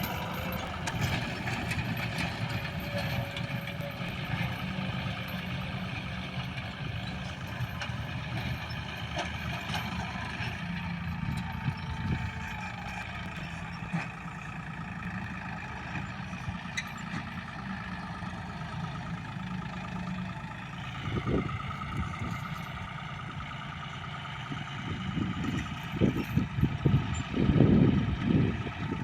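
John Deere tractor's diesel engine running steadily, with several louder low thumps near the end.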